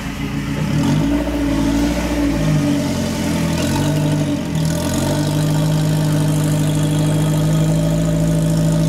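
UAZ off-roader's engine revving under load in deep mud. The revs rise and fall several times, then hold at one steady high pitch from about five seconds in.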